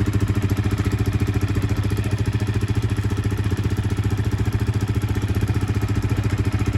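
A new 250 cc motorcycle's engine idling steadily, warming up after its first cold start.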